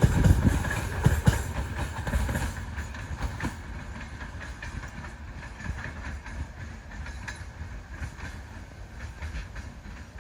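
Train wheels clacking over rail joints as the train passes close by, then fading steadily as it moves away.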